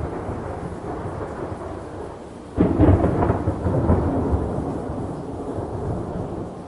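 Thunderstorm ambience: steady rain hiss with a sudden clap of thunder about two and a half seconds in, rumbling and fading over the next few seconds.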